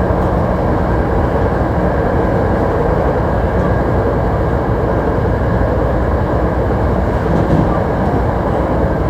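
Hankyu 1300 series train running at speed, heard from inside the car: a steady rumble of wheels on rail and running gear.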